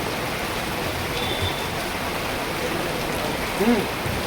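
Steady hiss of rain falling and running. A short voice sound comes near the end.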